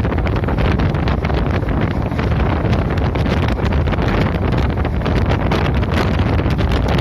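Wind buffeting the microphone at the window of a moving passenger train, over the steady running rumble of the train, with constant crackle.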